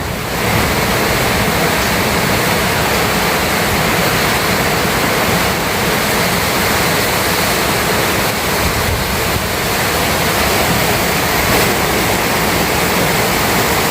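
Heavy storm rain pouring steadily, a loud even rushing hiss with no break.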